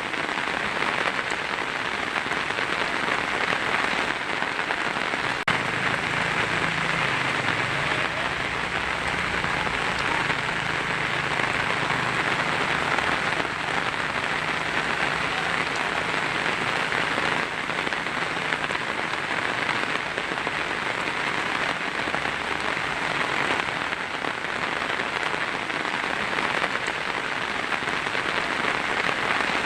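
Heavy rain drumming steadily on a tin roof, a dense even patter with no let-up. A faint low rumble sits underneath for a stretch in the middle.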